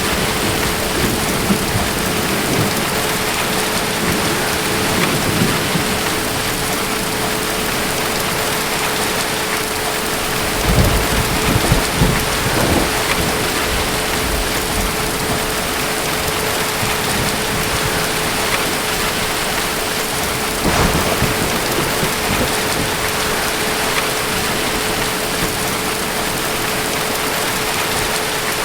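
Steady heavy rain falling, with thunder rumbling low about ten seconds in for a few seconds and again briefly about two-thirds of the way through.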